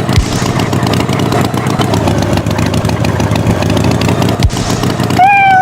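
Tractor engine running steadily. A short, held, pitched tone starts near the end.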